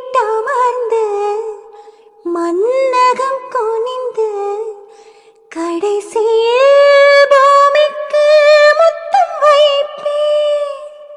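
Music: a high voice singing three phrases, the last one long, with sustained notes and vibrato.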